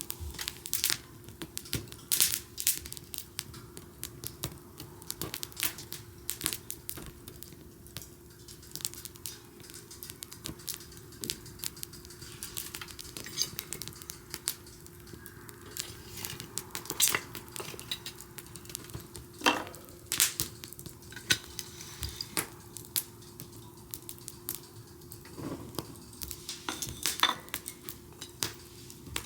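Wood bonfire crackling, with irregular sharp snaps and pops throughout.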